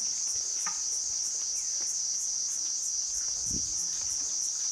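Insects chirring: a steady high-pitched buzz that pulses about three times a second.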